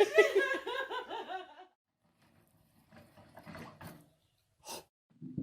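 A person laughing, a quick run of repeated ha-ha sounds that dies away within the first second and a half, followed by quiet with a faint click near the end.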